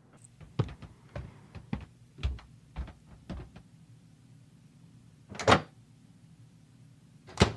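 Footsteps, about two a second, then a door opening and shutting with two loud thuds.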